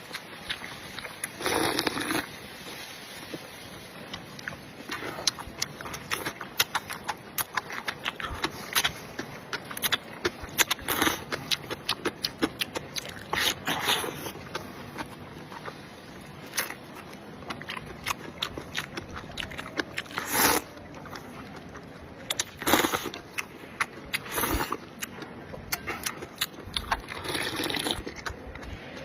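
A person eating close to the microphone: irregular chewing clicks and crunches throughout, with a few longer bites or slurps now and then.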